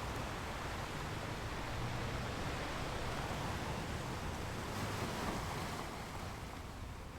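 Ocean surf: the steady wash of waves with a low rumble. One wave swells and breaks about two-thirds of the way through, then draws back near the end.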